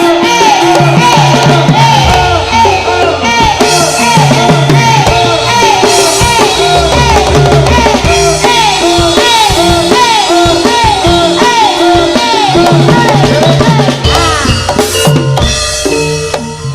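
Live instrumental music for a Javanese Turonggo horse dance. Drums and percussion keep a steady, driving rhythm under a short melodic figure that repeats over and over, with no singing.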